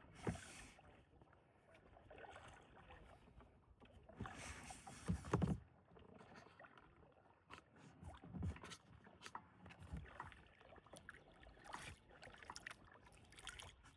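Faint kayak paddling: a paddle dipping and splashing in still water, with scattered light knocks. A louder splash with a dull thump comes about five seconds in.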